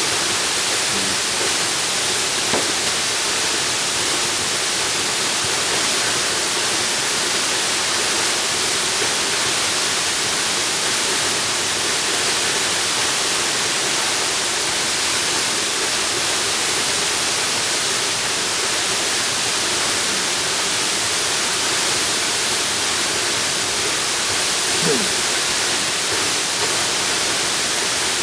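Jungle waterfall rushing: a steady, unbroken hiss of falling water.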